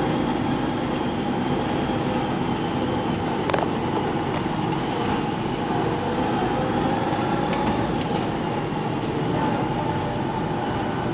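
Lorry cab interior while driving: the HGV's diesel engine and road noise as a steady drone, with a couple of brief clicks or rattles from the cab.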